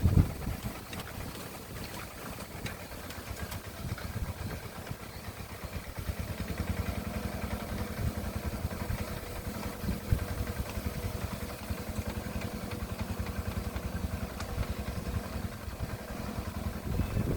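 Engine of a hand tractor plowing a rice paddy, running steadily with a rapid even firing beat, a little louder from about six seconds in.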